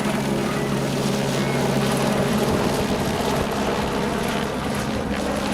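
Helicopter running steadily: a rapid rotor chop over a steady low engine hum.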